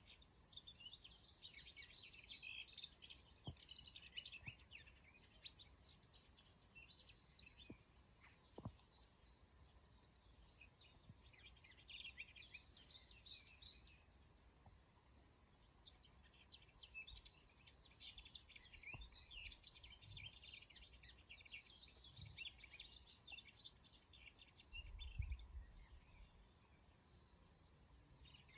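Small birds chirping and singing, with three runs of rapid, very high-pitched trilled notes.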